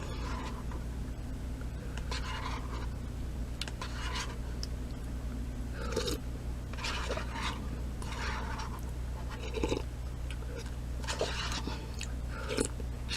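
Mouth sounds of eating tomato soup: a string of short, wet slurps from a spoon, one every second or two, over a steady low electrical hum.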